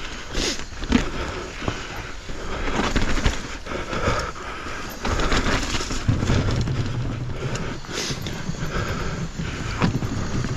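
Mountain bike riding over a rough, wet trail: tyres rolling and crunching over dirt, roots and rock, with irregular knocks and rattles from the bike.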